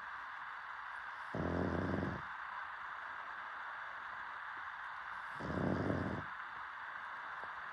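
A pug snoring in its sleep: two snores about four seconds apart, each under a second long, over a steady hiss.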